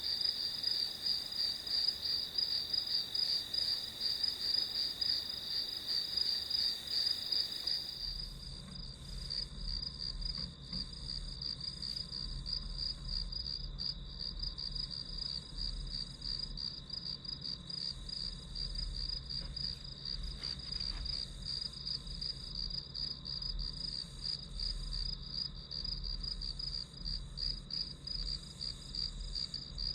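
Crickets chirping steadily in a rapid, even, high-pitched pulsing trill. About eight seconds in, the background changes and a faint low hum joins the chirping.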